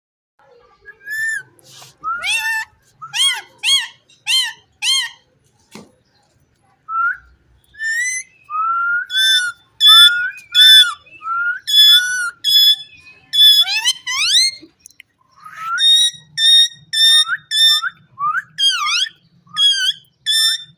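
Indian ringneck parrot whistling: a run of five short, sharp whistles starting about a second in, then after a brief pause a long, rapid series of short rising whistled notes, about two a second.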